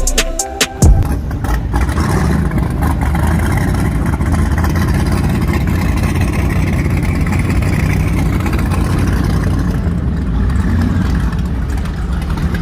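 A large engine running steadily with a deep, even rumble and a noisy hiss over it. A few beats of music cut off about a second in.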